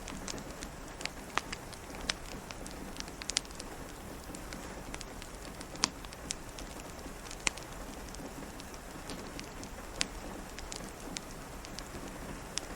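Steady rain, with irregular sharp pops and crackles from a fireplace over it.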